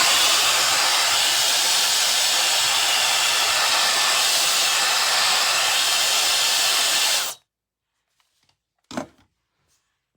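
SUPGALIY 1500 W mini ionic travel hair dryer blowing steadily, then switched off abruptly about seven seconds in. A short knock follows a couple of seconds later.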